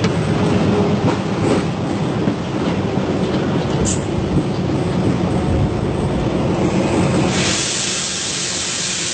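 Train running on the rails, a dense rumble with occasional clicks of the wheels over the track. About seven seconds in, a loud hiss sets in and continues.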